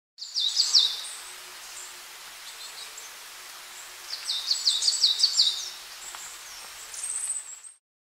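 A songbird singing in two bursts of quick, high, downward-sliding notes, about half a second in and again around four seconds in, with a few scattered fainter notes between, over a steady soft woodland hiss. It fades out just before the end.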